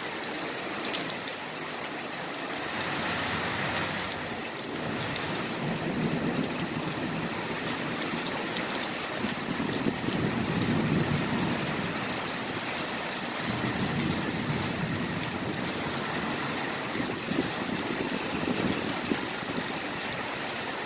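Heavy rain falling steadily, an even hiss. A few low rumbling swells come through in the middle.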